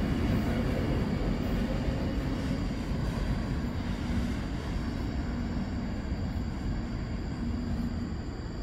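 Low rumble of a freight train's wheels on the rails, slowly fading as the last cars roll away.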